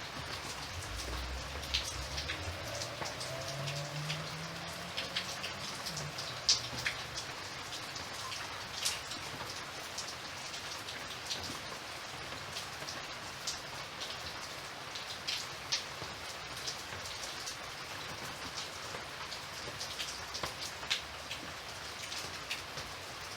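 Steady rain falling, with frequent sharp individual drop strikes standing out from the hiss. A faint low sound rises in pitch during the first few seconds.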